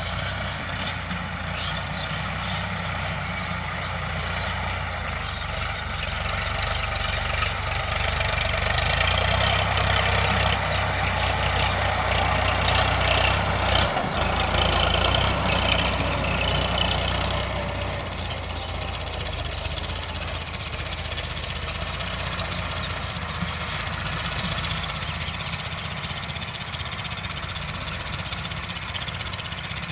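Sonalika DI 745 tractor's diesel engine running, growing louder about eight seconds in and easing back after about seventeen seconds.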